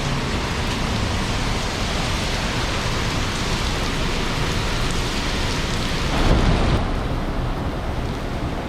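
Torrential downpour: heavy rain making a dense, steady hiss, with a brief louder low rumble about six seconds in.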